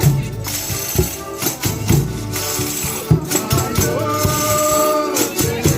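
Folia de Reis music: a tambourine shaking and beating a rhythm with drum strikes, and a long held note from about four seconds in.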